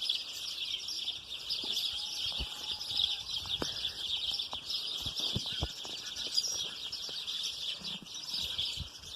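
Chorus of many small birds chirping and twittering at once, a dense, continuous high-pitched chatter.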